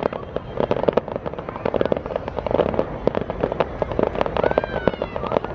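Fireworks display going off: a dense, continuous crackle of many sharp pops and bangs a second. A short wavering tone rises and falls briefly near the end.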